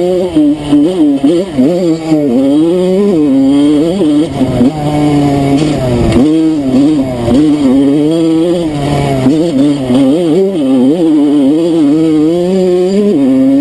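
Enduro motorcycle engine revving up and down with constant throttle changes, its pitch rising and falling every second or so.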